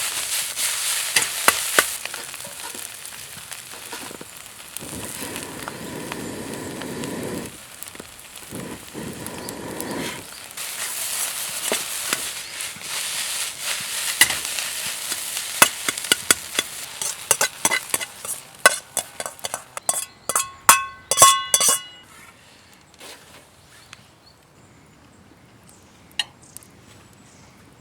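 Fried rice sizzling in a wok over a wood fire while it is stirred and scraped, with many sharp clicks. About twenty seconds in comes a quick run of ringing metallic clinks on the wok, after which the sizzle fades to a faint hiss.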